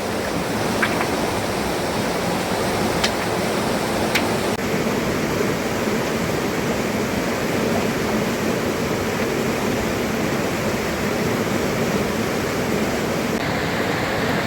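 Steady rushing water noise, with a few sharp ticks in the first few seconds.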